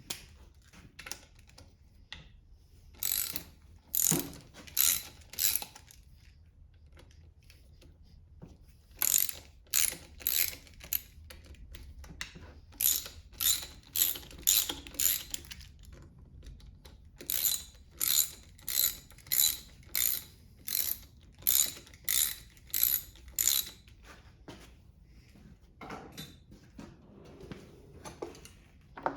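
Socket ratchet wrench clicking in repeated back-swings, a stroke roughly every two-thirds of a second, in four runs with short pauses between, as bolts are worked loose on a Kohler small engine.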